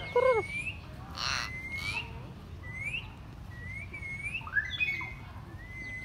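Aviary birds calling: a series of short rising whistled notes, one every second or so, with a louder squawk just after the start and a brief harsh call about a second in.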